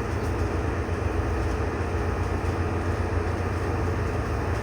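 A steady low mechanical rumble with a faint hum, like a motor or engine running continuously, with no distinct events.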